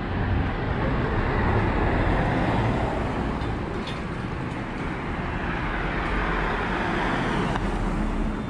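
Road traffic: a steady rumble of cars, with vehicles passing and swelling up and fading twice.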